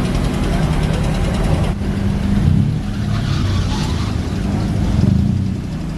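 Car engine running at a car meet, a steady low note that swells up twice, with an abrupt change in the sound about two seconds in.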